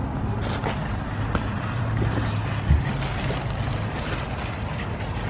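Steady low rumble of a car running, with a hum and an even noise over it, and a single thump about halfway through.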